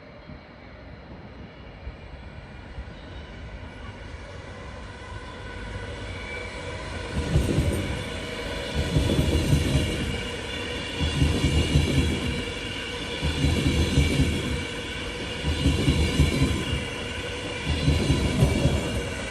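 A train approaching and growing louder for several seconds, then passing close by. Its cars' wheelsets thump past in regular pulses about every two seconds, over steady high-pitched ringing from the wheels.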